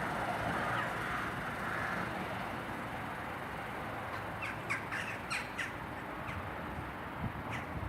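A crow cawing, about six harsh calls in quick succession around the middle, with a couple more spaced out after. Under them is the fading rumble of a train that has just passed.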